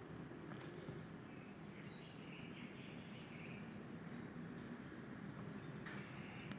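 A few faint, short, high bird chirps and a brief whistle near the end, over a steady low background hum.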